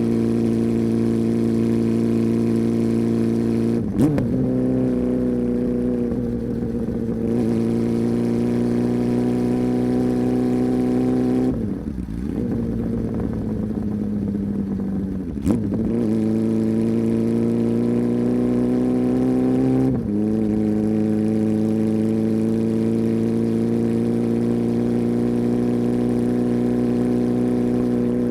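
Honda CB400 Super Four's inline-four engine with its deep exhaust note, running steadily with the pitch slowly rising, then dropping back sharply several times, and falling for a few seconds in the middle.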